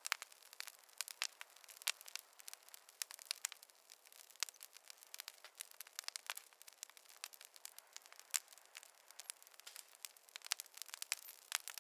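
Wood fire crackling in a fireplace: irregular sharp pops and snaps, several a second, over a faint hiss.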